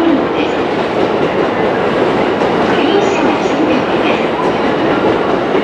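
A train running through a railway station, with steady rolling rumble and wheel-on-rail noise.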